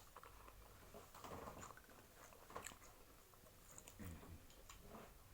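Faint chewing and biting of fried chicken, a few brief soft mouth sounds against near silence.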